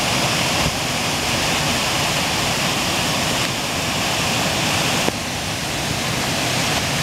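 Buchenegger waterfall: water falling steadily into its pool, a constant rushing noise, with a single faint click about five seconds in.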